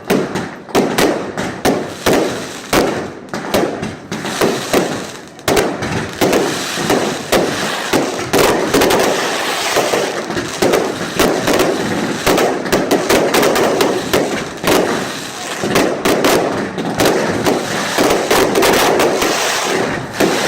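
Fireworks display going off without a break: a rapid, dense string of bangs and crackling pops, several a second.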